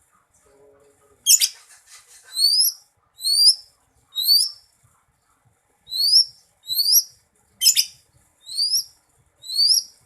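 Greater green leafbird (cucak ijo) singing: a run of short, upward-slurred whistled notes repeated about once a second, with a pause in the middle, and two sharper fast-rising sweeps, one about a second in and one near the end.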